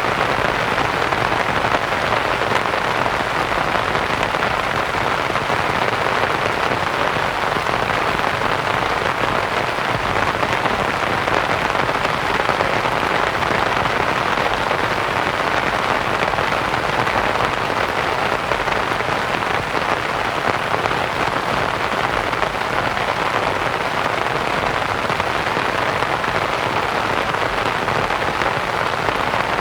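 Steady rain pattering on a canvas tent, blended with soft white noise, constant throughout.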